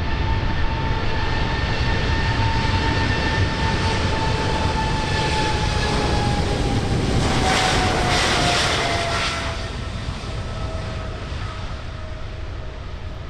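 Jet airliner passing close, its engines a rushing roar with a whine that slowly drops in pitch, loudest about eight seconds in, then fading away.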